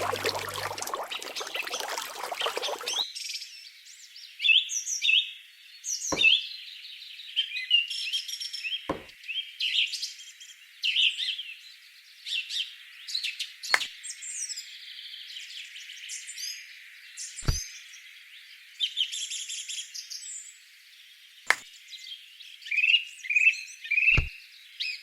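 Birds chirping and calling throughout, with six sharp clicks a few seconds apart and a brief noisy rush in the first few seconds.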